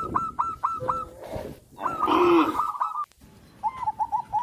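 Farmyard fowl calling: a quick run of short, repeated calls, a louder burst about two seconds in, then a few quieter calls near the end.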